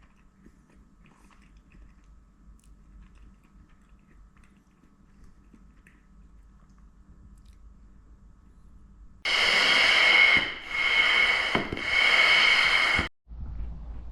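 Low quiet background, then a loud hiss with a whistling edge begins about nine seconds in, comes in three stretches of roughly a second each, and cuts off suddenly.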